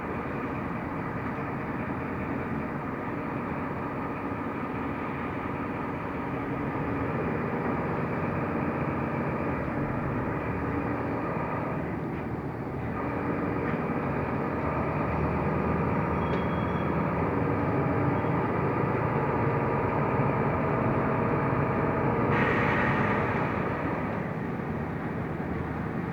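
Inside a Mercedes-Benz Türk O345 Conecto LF city bus on the move: steady engine and road noise, growing louder partway through. A short burst of hiss comes about 22 seconds in.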